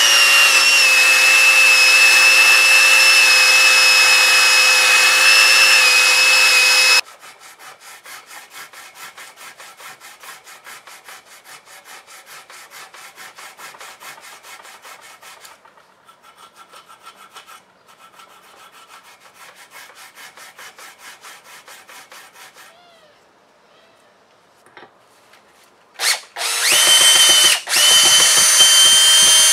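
An electric power tool running at steady speed with a high whine cuts off about a quarter of the way in. Quiet, rapid rubbing strokes on the metal wrench follow. Near the end the power tool starts again in short bursts.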